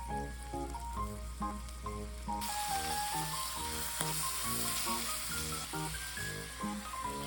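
Food starting to sizzle in hot oil, the steady hiss beginning suddenly about two and a half seconds in, over background music with a plucked melody.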